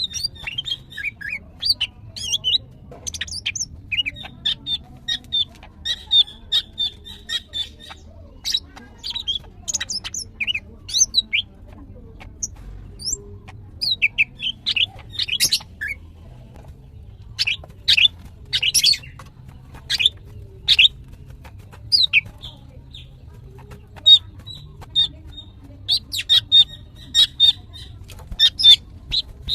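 Female greater green leafbird (cucak ijo) calling in a fast, varied string of sharp chirps and short whistled notes, with runs of rapid repeated notes and a brief lull near the middle. These are the excited calls of a female in breeding condition, the kind used to call in and set off males.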